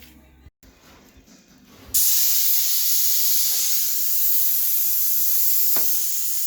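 Steady hiss of paint being sprayed onto the truck's roof panel, starting about two seconds in, probably a coat applied before sanding to show up low spots.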